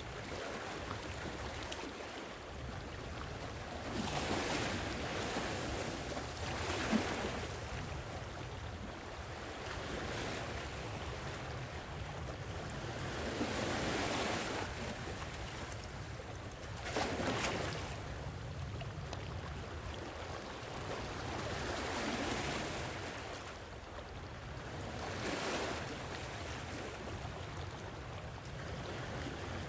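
Gentle sea waves washing onto the shore, a new wave swelling and receding every three to four seconds over a steady low rumble of surf.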